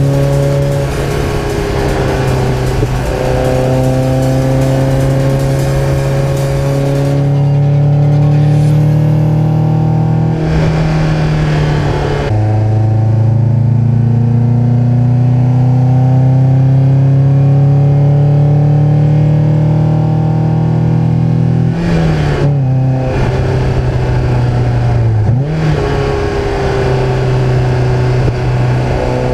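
1990 Toyota MR2 SW20's naturally aspirated four-cylinder engine running through a stainless Mongoose exhaust with a decat pipe, under way. The exhaust note holds steady and climbs slowly in pitch. It drops abruptly about 12 seconds in, and shifts again around 22 and 25 seconds.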